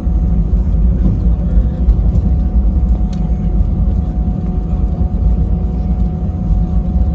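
Airbus A320 cabin noise heard from a window seat: a steady, loud low rumble of the jet engines and airflow, with a steady whine held on one pitch.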